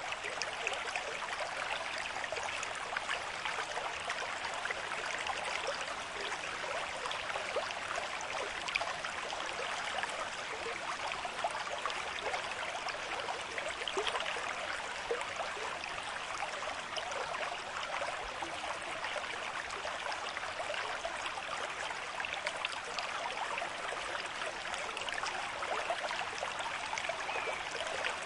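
River stream with a moderate flow, water running and splashing steadily over rocks.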